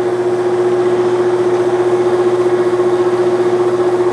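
Clausing Colchester 1340 metal lathe running at about 236 RPM with the threading feed engaged, giving a loud, steady gear whine on one strong tone.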